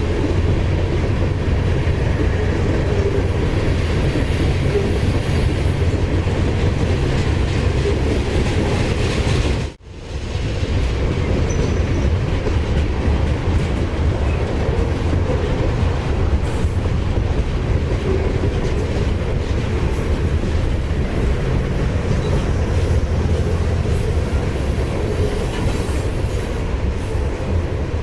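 Freight train rolling past: a steady rumble of wheels with clickety-clack over the rail joints. The sound drops out abruptly for a moment about ten seconds in, then carries on unchanged.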